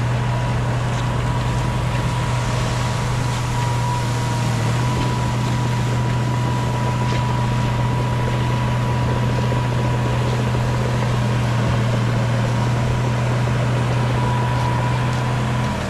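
Heavy diesel engine of earthmoving machinery running at a steady speed, with a thin steady whine above it; the engine sound drops off just before the end.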